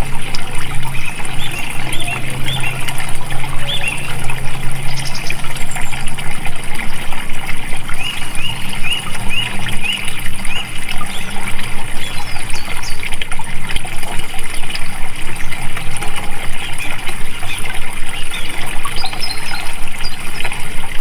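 Flowing water trickling and splashing steadily, with birds chirping in runs of short repeated notes.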